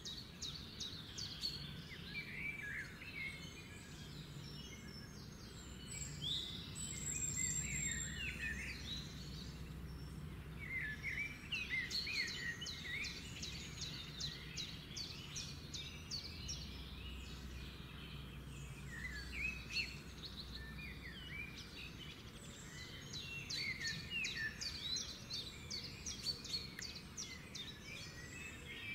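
Small birds chirping and twittering in quick, busy bursts with short lulls, over a low steady hum.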